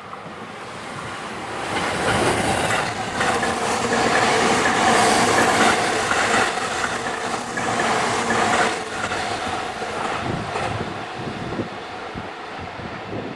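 JR E257 series limited express electric train passing close at speed, its wheels clattering over the rail joints. The sound swells about two seconds in, is loudest midway, and fades after about nine seconds as the train moves off.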